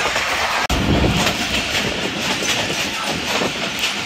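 Passenger train in motion: steady running noise of the carriage and its wheels on the rails.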